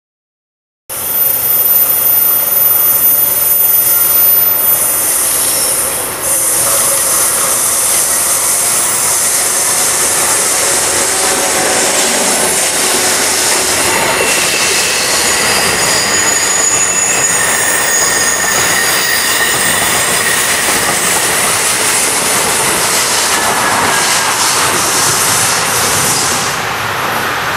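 New Jersey Transit commuter train, led by an ALP-45DP locomotive with double-deck cars, passing close by: a loud steady rush of wheels on rail that starts about a second in. Thin high squealing tones from the wheels come through in the middle, and the sound eases slightly near the end as the train draws away.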